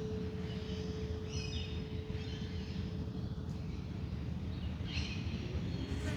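A singing bowl's steady tone ringing on and slowly fading away over the first few seconds, with short bird chirps twice, over a constant low rumble.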